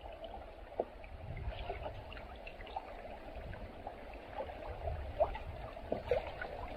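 Sea water lapping and trickling against the hulls of rafted-up sea kayaks drifting on a fast tide, with many small splashes and drips.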